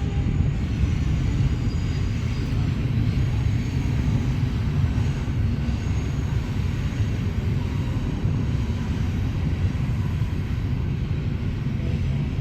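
Strong wind buffeting the microphone: a steady, gusting low rumble, with the faint whine of the Parrot Disco fixed-wing drone's electric propeller motor heard at moments.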